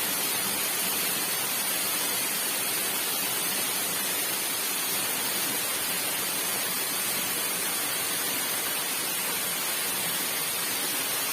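A tall waterfall, about 70 m high, rushing: a steady, unbroken hiss of falling water.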